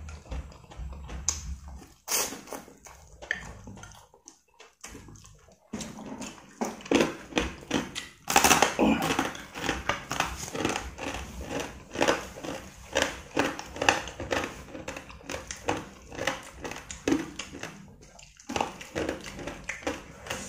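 Close-up eating sounds: chewing instant noodles, then a loud crackle about eight seconds in, followed by a long run of rapid crunching as crisp homemade fried rice crackers (kerupuk nasi) are chewed.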